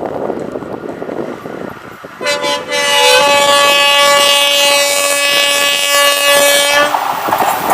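Diesel locomotive horn: two very short toots, then one long steady blast of about four seconds. After the blast ends, the loud rushing noise of the passing train takes over.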